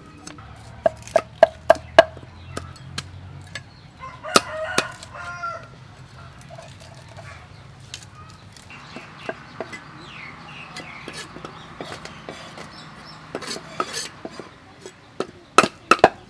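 A rooster crowing and clucking, over a run of sharp knocks from kitchen work.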